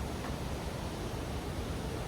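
Steady roar of rushing water from the Iguazu waterfalls, an even rushing noise with no breaks.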